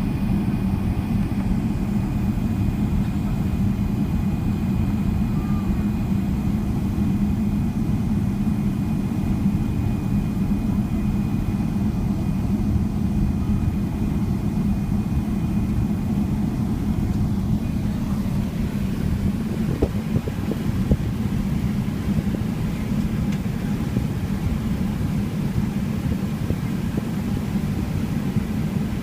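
Steady engine and airflow rumble inside the cabin of a Boeing 777-300ER with GE90 engines, a deep, even drone with a faint high whine that fades out about two-thirds through.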